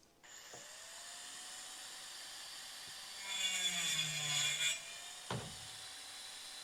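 Power drill driving a screw into wood framing: the motor whines steadily, then bogs down with a falling pitch under load for about a second and a half, followed by a sharp knock.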